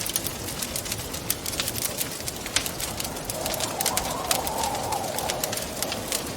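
Wood fire crackling in a fireplace, with frequent sharp pops and snaps over a steady rush. About halfway through, a hollow wind howl swells and fades over a couple of seconds.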